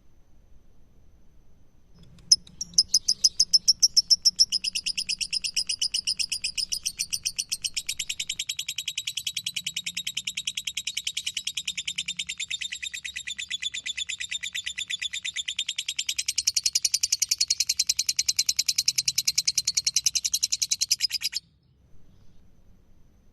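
Lovebird 'ngekek' song: one long unbroken chattering trill of rapid, evenly repeated high notes. It starts about two seconds in, runs for roughly nineteen seconds and cuts off abruptly.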